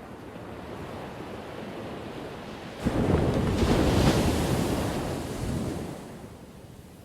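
Ocean waves crashing on a shore: a low steady wash of surf, then about three seconds in a wave breaks suddenly and rushes loudly for about three seconds before fading back to a quieter wash.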